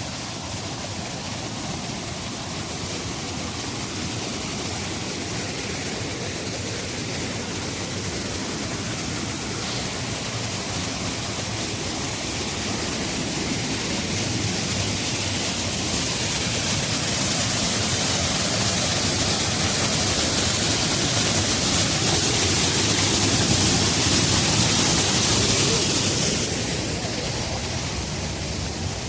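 Rushing water of the Ain Asserdoun spring's cascades, a steady wash of noise that grows gradually louder and then drops off a few seconds before the end.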